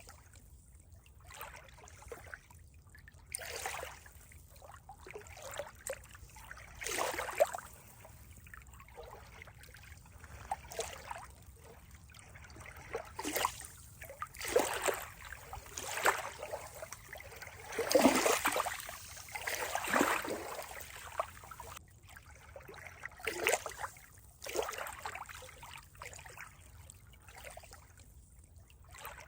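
Water trickling and gurgling in uneven spurts, with louder splashy surges coming every second or two.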